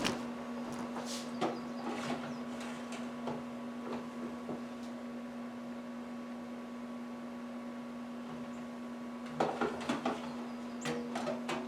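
Ninja air fryer running with a steady hum, its timer still counting down, while light clicks and knocks come now and then, a cluster of them near the end.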